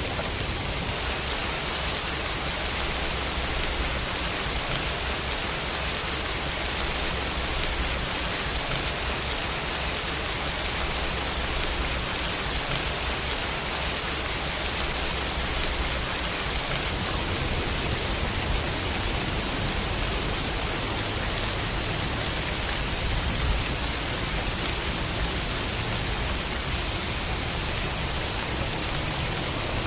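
Steady rain falling, an even hiss with a faint low rumble underneath.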